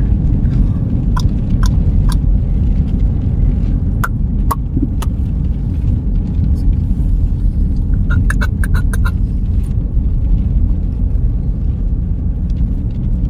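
Car driving on a snowy road, heard from inside the cabin: a steady low rumble of road and engine noise. A few small clicks and ticks come and go, with a quick run of them about eight seconds in.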